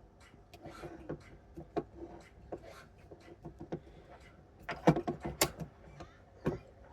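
Irregular small clicks and knocks from handling the parts of an opened steering lock module, with a louder cluster a little under five seconds in and a single knock near the end.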